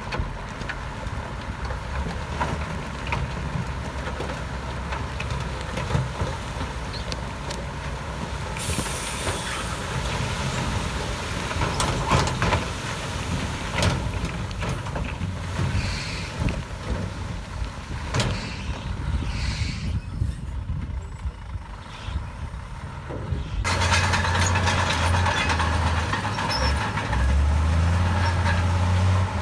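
Heavy diesel earthmoving machinery running, with scattered sharp clanks. About two-thirds of the way through, the sound changes abruptly to a louder, steady low engine drone.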